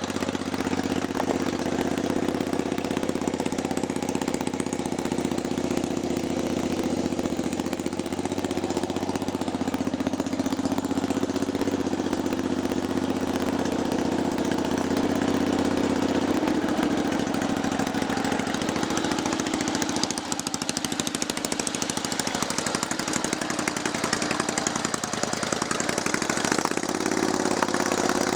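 Kohler 20 hp V-twin engine of a lifted Craftsman lawn tractor running steadily. Its note dips somewhat a little past halfway and picks up again near the end.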